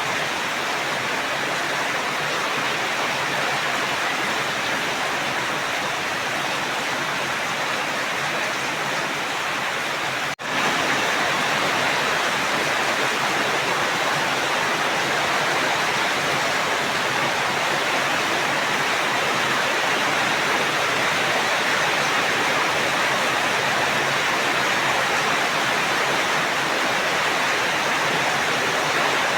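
Steady rain, an even hiss with no breaks except a split-second dropout about ten seconds in, after which it runs a little louder.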